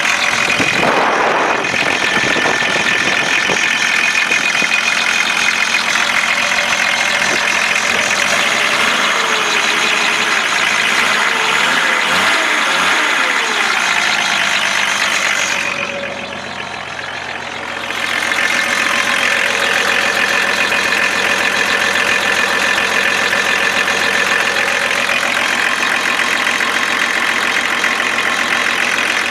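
BMW 525tds M51 inline-six turbodiesel running steadily, mostly at idle, on a mechanical injection pump taken from a 2.4 TD. The pitch wavers a little in the middle, and the sound briefly drops in loudness and turns duller about two-thirds of the way through.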